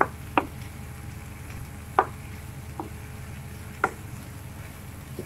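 Five sharp, irregularly spaced knocks of kitchen utensils during cooking, over a steady low background noise.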